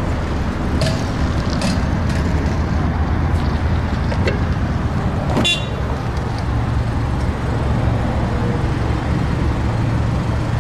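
Steady low rumble of road traffic going by, with a few light clicks and one short sharp click-squeak about five and a half seconds in.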